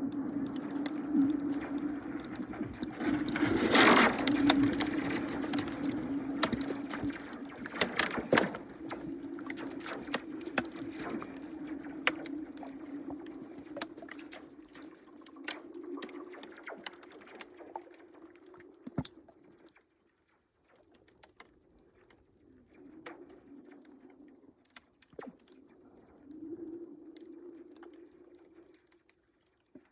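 Lake ice cover humming and moaning with a steady low tone, shot through with sharp cracks and pings, loudest about four seconds in and again about eight seconds in. The hum fades out about two-thirds through and returns in short swells near the end. This is spring ice breaking up as the sun warms it after a cold night.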